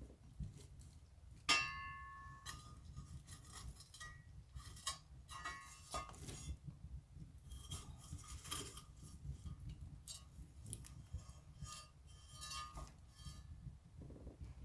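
Fire crackling and popping in a fireplace, with irregular sharp snaps over a steady low rumble. About a second and a half in, one louder crack rings briefly.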